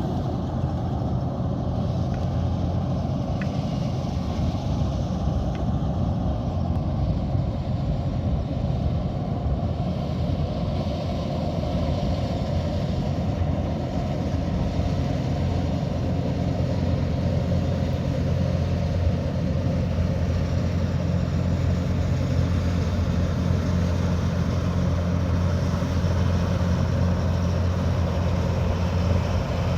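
Kubota DC108X combine harvester running steadily while harvesting rice: a continuous low diesel engine drone with machinery noise on top, getting a little louder toward the end.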